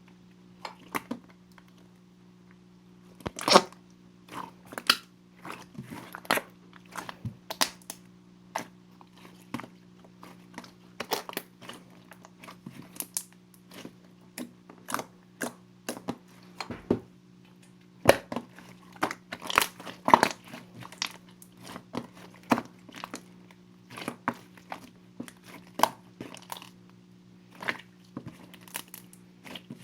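Slime being squeezed and pressed with the fingers: irregular sticky clicks, pops and crunches, several a second, with a louder crackle about three and a half seconds in and another cluster around eighteen to twenty seconds.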